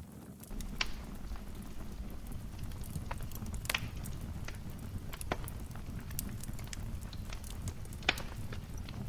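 Wood fire crackling in a fireplace: a steady low rumble of flames with scattered sharp pops and snaps, the loudest about eight seconds in.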